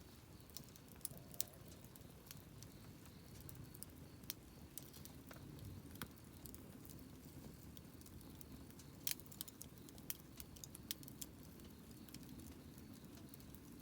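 Wood campfire crackling: irregular sharp pops and snaps, a few louder than the rest, over a faint low rush.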